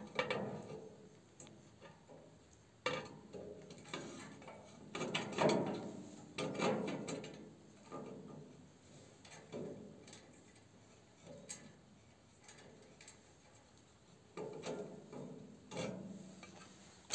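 Intermittent clicks, knocks and scrapes of metal stove parts being handled and fitted by hand during assembly of a cast-iron stove.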